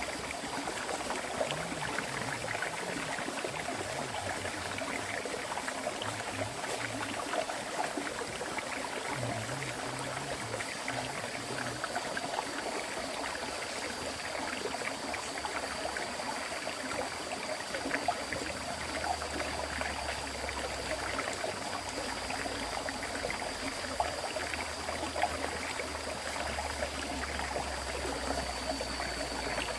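Continuous flow of a river stream: a steady, even rush and trickle of running water.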